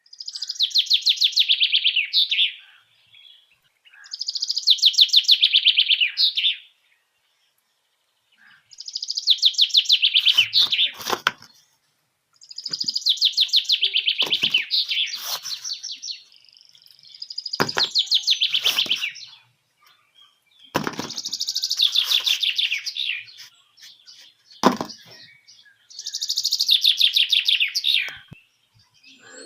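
A bird singing: seven trilled phrases of a couple of seconds each, each a rapid run of high notes falling slightly in pitch, with a few sharp clicks in the gaps.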